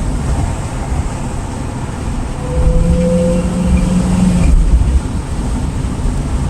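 Road and engine noise inside a moving car: a steady low rumble, with an engine drone swelling louder for about two seconds in the middle before easing off.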